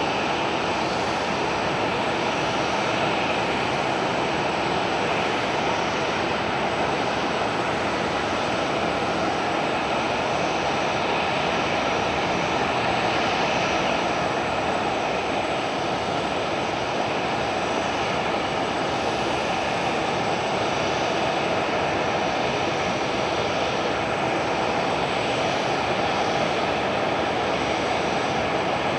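Jet airliner engines running with a steady, unchanging noise.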